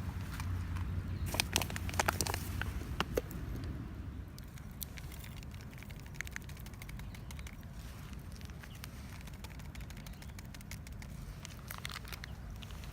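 Campfire crackling: sharp pops and clicks, thickest in the first few seconds and sparser afterwards, over a low steady rumble.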